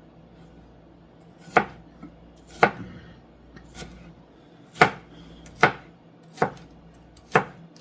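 Kitchen knife chopping onion on a cutting board: six sharp chops at uneven intervals, roughly a second apart.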